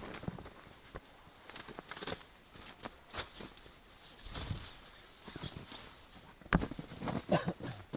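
Footsteps in snow, a few slow, irregular steps, with one sharper knock about six and a half seconds in.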